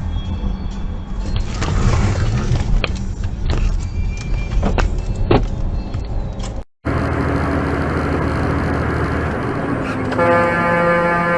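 Vehicle and road rumble in a car with several sharp knocks, then, after a cut, steady traffic noise and a car horn that starts sounding steadily near the end.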